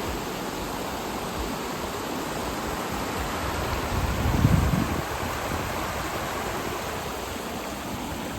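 Steady rush of a river's flowing water, with a brief low rumble about four seconds in.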